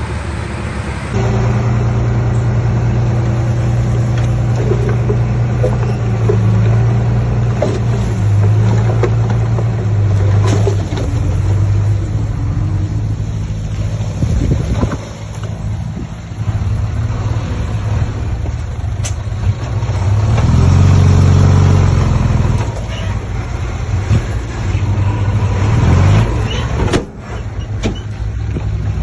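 Diesel engine of heavy earthmoving machinery running steadily with its revs shifting, rising to a louder surge about two-thirds of the way through, with a few knocks and clanks.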